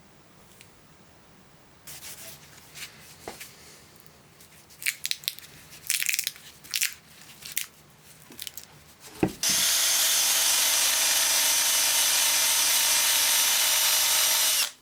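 Tools and metal parts being handled, with scattered clicks and rubs. Then a power tool runs at a steady speed for about five seconds and stops abruptly.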